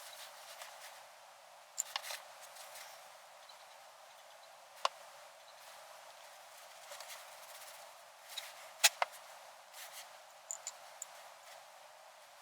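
Scattered light clicks and small metallic knocks of hand work on parts, irregular, with the sharpest about five seconds and nine seconds in.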